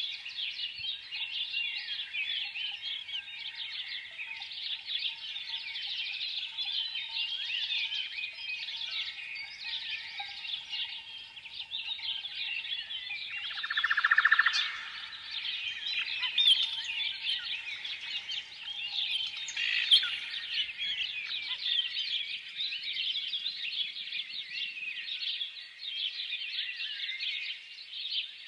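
A flock of sparrows chirping continuously in a dense, overlapping chorus. About halfway through, one louder, harsher buzzy call stands out.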